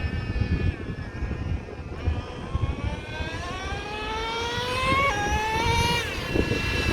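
Traxxas Revo 3.3 nitro RC truggy's small nitro engine running at speed: its high whine falls over the first two seconds, then climbs as it accelerates, drops suddenly in pitch about five seconds in and climbs again. Wind rumbles on the microphone underneath.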